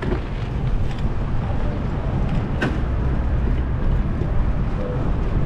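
Steady low rumble of road and traffic noise heard from a moving bicycle, with wind buffeting the microphone, broken by a couple of sharp clicks about a second and two and a half seconds in.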